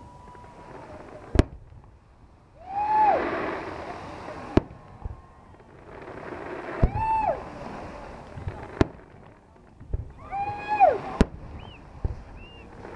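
Fireworks display: about five sharp bangs a couple of seconds apart, some followed by a rushing hiss. Between them, a voice calls out several times with a rising-then-falling cry.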